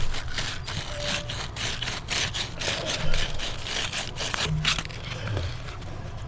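A run of short, irregular scraping sounds, a dozen or so strokes close together, over a steady low hum.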